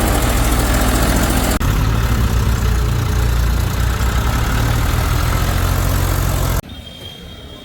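A heavy-machinery diesel engine running loud and close, with a steady low throb. The sound cuts abruptly about a second and a half in, and near the end drops to a much quieter engine.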